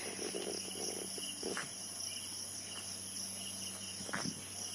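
Crickets and other insects chirping in a steady chorus, several high-pitched trills at once, one of them pulsing evenly. There are faint short sounds about a second and a half and about four seconds in.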